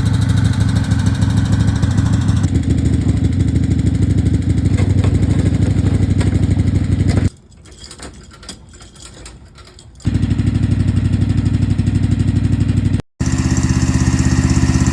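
Small garden tractor engine running steadily under load while towing. It drops away to a much quieter sound for a few seconds in the middle, with a short break near the end.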